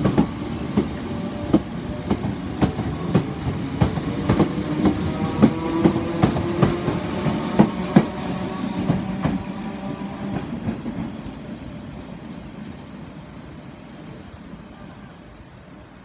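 Southern Class 313 electric multiple unit pulling away, its wheels clacking over rail joints several times a second over a steady motor hum. The sound fades from about ten seconds in as the train draws away.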